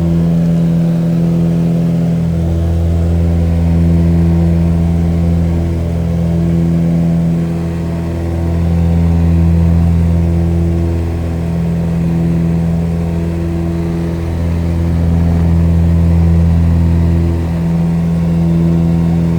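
Propeller airplane engine drone, a steady low hum that swells and fades slowly every few seconds.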